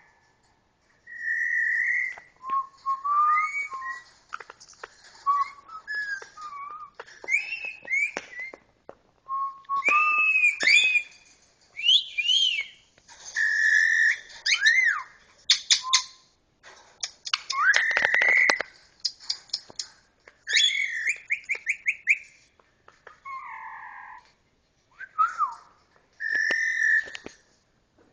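Ringneck parrot whistling and squawking in a long run of short calls whose pitch rises and falls, with sharp crackling clicks of a plastic bottle being chewed in between.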